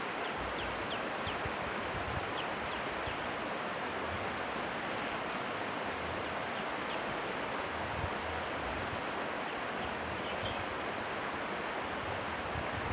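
Steady rushing outdoor ambience, an even hiss without pauses, with a few faint short high chirps now and then.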